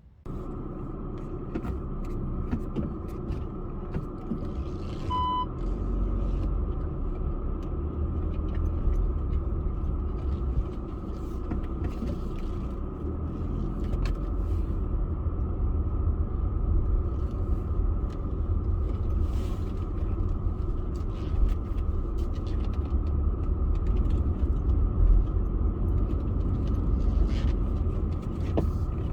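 A car driving, with a steady low rumble of engine and road noise. A short single beep sounds about five seconds in.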